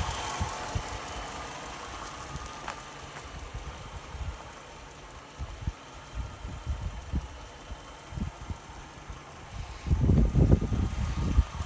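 Chrysler 300C's 5.7-litre Hemi V8 idling steadily under the open hood. A cluster of louder low bumps comes about ten seconds in.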